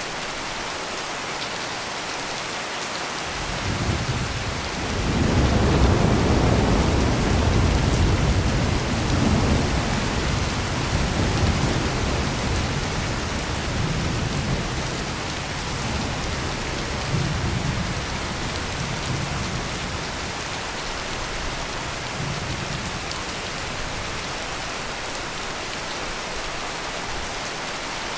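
Heavy rain pouring steadily in an even hiss, with a roll of thunder that builds about four seconds in, is loudest soon after, and rumbles on in waves before fading out well before the end.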